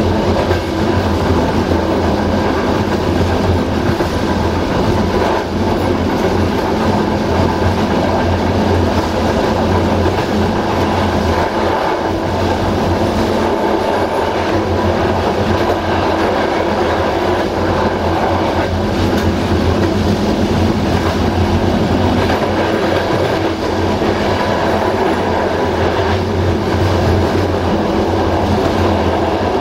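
A moving passenger train's wheels running on the rails, heard from the rear carriage: a steady loud rumble with a constant low hum.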